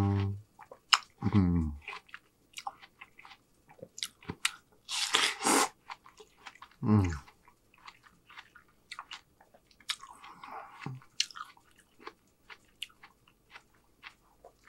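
Close-miked chewing of juicy fruit, with wet mouth clicks and lip smacks throughout. Three short, low "mmm" hums fall in pitch, one at the start, one about a second and a half in and one about seven seconds in. A longer noisy hiss of breath comes about five seconds in.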